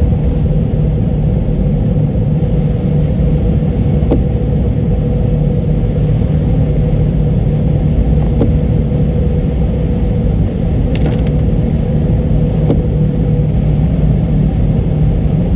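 Car driving along, heard from inside the cabin: a steady low road and engine rumble with a faint steady hum above it. Faint ticks come about every two seconds.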